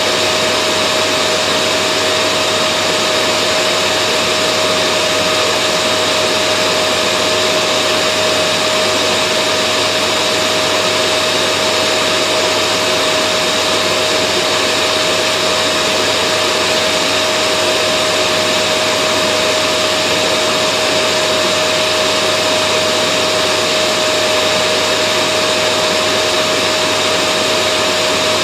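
Vacuum cleaner running steadily, used as white noise to soothe babies to sleep: a constant rush of air with a steady whine held over it, never changing.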